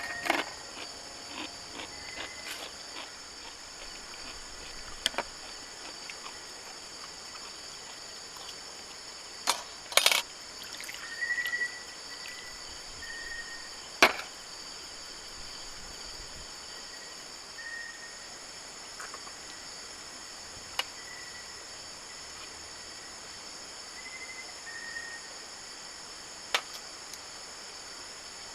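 Steady high-pitched drone of insects such as crickets, with a few short high chirps. Scattered sharp clicks or knocks are the loudest sounds, several close together about ten seconds in and another about fourteen seconds in.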